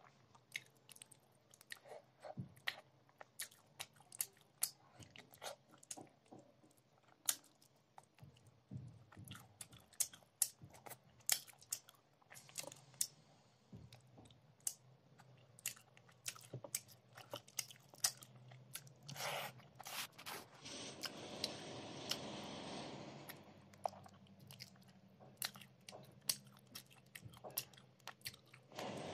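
Close-miked chewing of rice and mrigal fish curry eaten by hand, with many short wet mouth clicks. A steady hiss runs for about three seconds about two-thirds of the way through.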